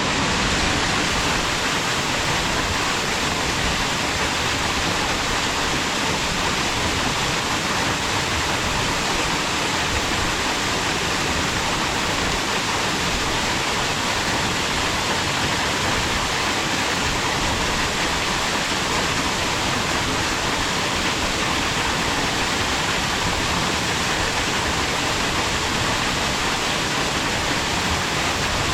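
A waterfall running, a steady loud rush of falling water with no pauses or changes.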